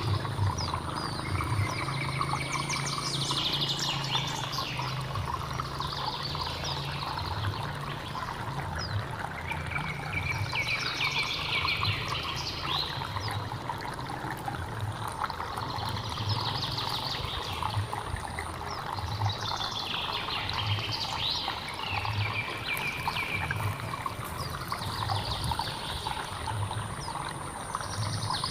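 Hill stream running steadily, with a songbird repeating the same short, quick trilling phrase about every four seconds over the water.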